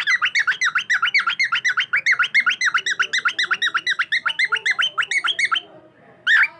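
Cockatiel chirping in a rapid, even string of short calls, several a second, for about five and a half seconds. One more brief call comes near the end.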